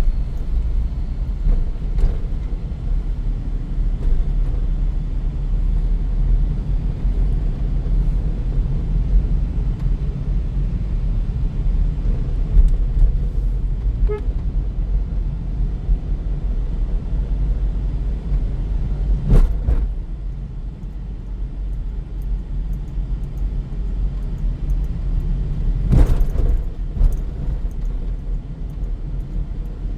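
Steady low road and tyre rumble of a Maruti Suzuki S-Presso driving along, with two sharp thumps from the road, about two-thirds of the way through and near the end.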